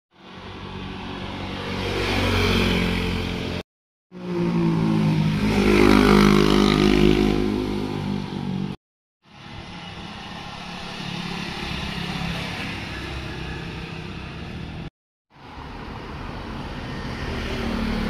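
Motorcycles riding past one after another, their engines rising in volume as they come near. The sound comes in four short stretches with abrupt silent breaks between them. The loudest pass is in the middle, where the engine pitch drops as the bike goes by.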